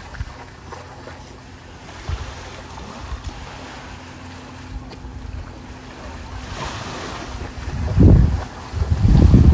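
Wind buffeting the microphone over the sound of water at the shore, with a faint steady low hum through most of it. Two heavy gusts hit the microphone near the end.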